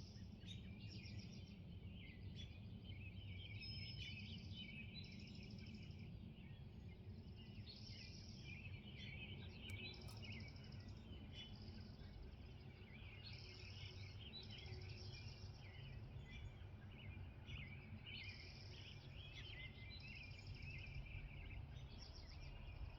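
Morning birdsong from several birds: a busy mix of chirps and trills, with one higher song repeated every few seconds, over a faint steady low rumble.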